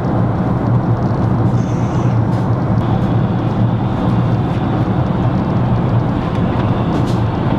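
Steady airliner cabin noise in flight: an even rush of jet engines and airflow with a constant low hum.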